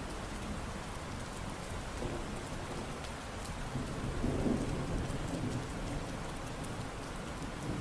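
Steady rain falling, with a low rumble of thunder swelling about four seconds in and fading.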